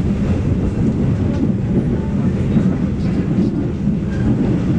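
Steady low rumble inside a moving stainless-steel passenger train coach: the wheels running on the rails at speed.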